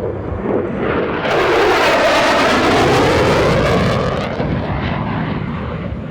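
A Block 30 F-16C Fighting Falcon's single General Electric F110 turbofan in a fast low pass: jet noise swells over about a second, peaks with a sweeping, phasing whoosh as it goes by, and dies away after about four seconds.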